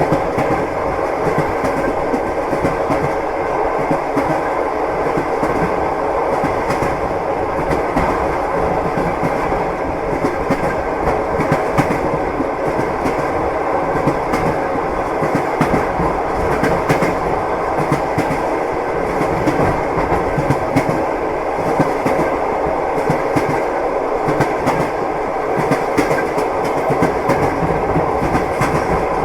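Train wheels clattering over the rail joints: the steady rumble of a moving railway carriage with a continuous clickety-clack, heard from inside the car.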